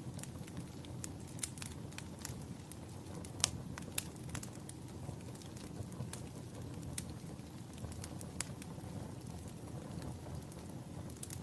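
Wood fire crackling in a fireplace: irregular sharp pops and snaps, the loudest a few seconds in, over a steady low rumble.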